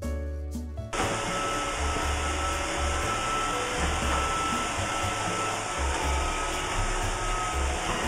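Roomba robot vacuum running, a steady whirring hiss with a thin high whine through it, starting suddenly about a second in.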